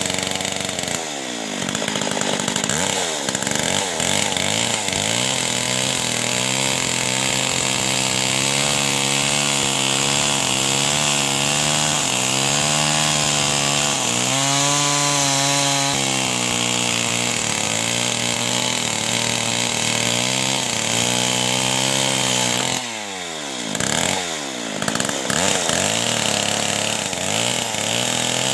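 Two-stroke chainsaw running hard, its engine pitch wavering up and down as if cutting wood under load. Its revs drop and pick up sharply near the start and again about three-quarters of the way through.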